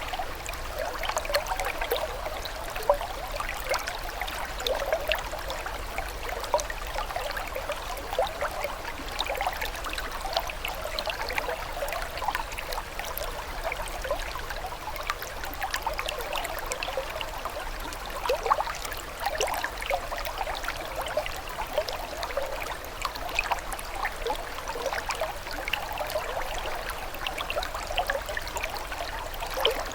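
Running water trickling and babbling steadily, like a small stream, made of a dense patter of tiny splashes and gurgles that never lets up.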